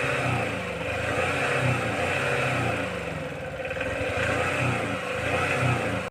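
Engine sound running steadily with a low pulsing throb, easing slightly about halfway through.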